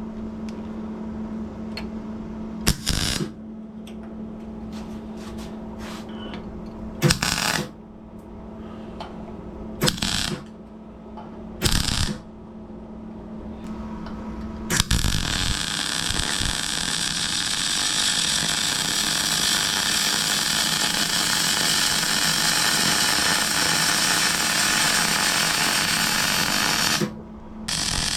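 Electric welder making four short tack welds, each a brief burst of crackling hiss, over a steady hum. A continuous weld then runs for about twelve seconds, stops briefly near the end, and starts again.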